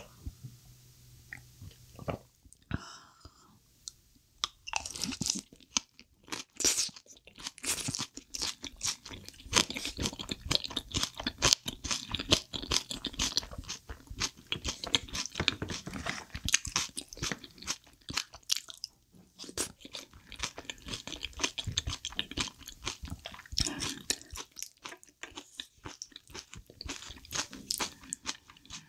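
Close-miked chewing of spicy chicken feet, quiet at first, then a dense run of sharp crunches from about five seconds in until near the end.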